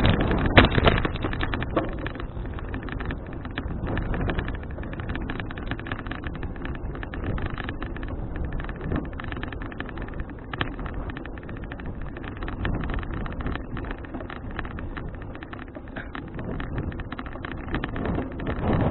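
Wind buffeting the microphone of an action camera on a moving bicycle, over a steady rumble from the ride with many small rattling clicks; it is louder at the start and again near the end.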